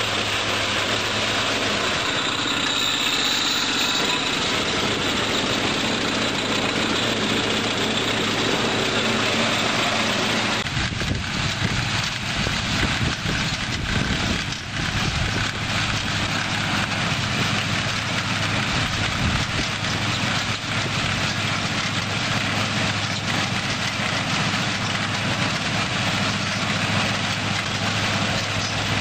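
Rice combine harvester engine running steadily. About eleven seconds in, a heavier, uneven low rumble joins in.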